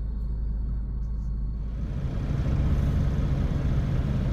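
Steady low rumble of a semi-truck, growing louder about two seconds in.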